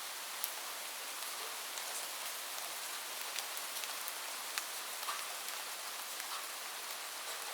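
Steady rain on a roof: an even hiss with individual drops ticking sharply at irregular moments throughout. No thunder.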